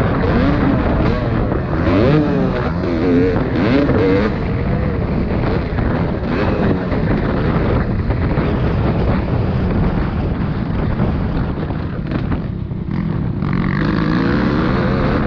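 Motocross motorcycle engines racing, their pitch climbing and dropping again and again as the bikes rev through the gears. The sound eases briefly about twelve seconds in, then the revving rises again near the end.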